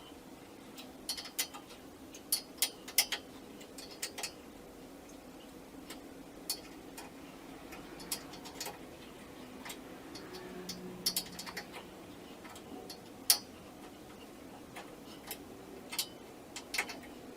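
Scattered sharp clicks and taps at uneven intervals, sometimes in quick clusters, over a faint steady hum.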